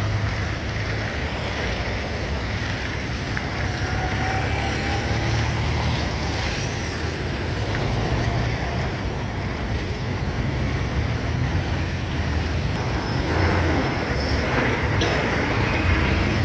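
Street traffic: vehicle engines running and passing on a busy road, a steady low rumble, with a brief sharp click near the end.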